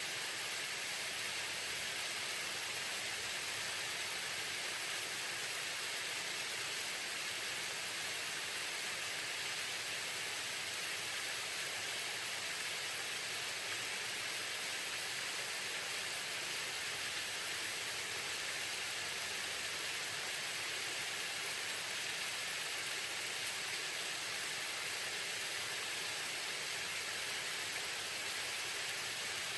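Waterfall: a steady, unbroken hissing rush of falling water.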